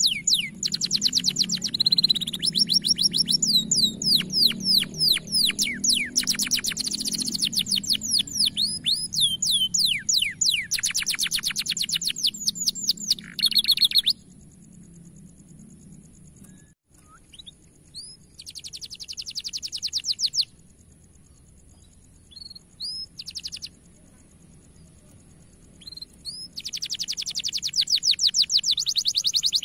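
Domestic canary singing long runs of fast trills and rolling phrases. The song is dense for about half the time, then breaks into short bursts, and full song returns near the end.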